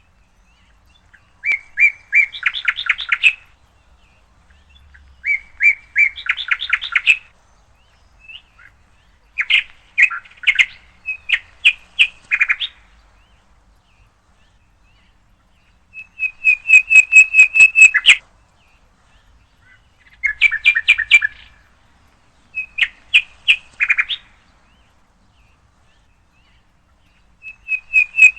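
A songbird singing: repeated phrases of rapid chirping notes, each a second or two long, with pauses of a few seconds between them.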